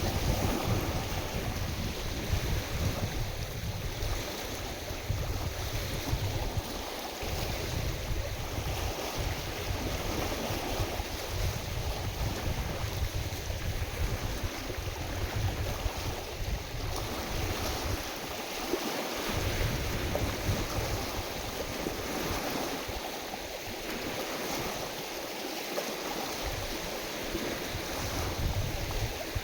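Wind-driven lake waves splashing, with gusty wind rumbling on the microphone that eases off briefly now and then.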